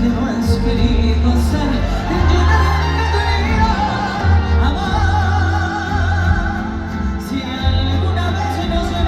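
Live concert music: a woman singing long, wavering held notes of a Latin ballad over a band, with heavy, steady bass.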